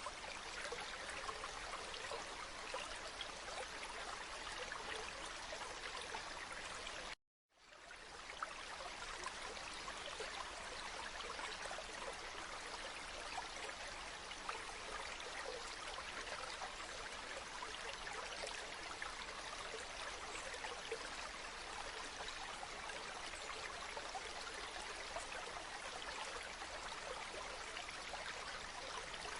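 River water flowing steadily with a continuous rushing and trickling. About seven seconds in it cuts out to silence for a moment, then fades back up.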